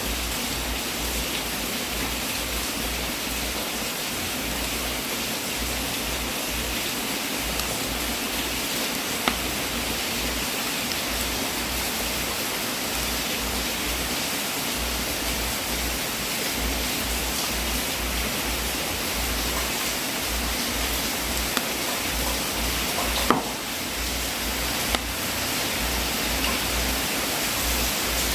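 Wood fire burning in a fireplace: a steady crackling hiss with a few sharp pops, the loudest about three quarters of the way through.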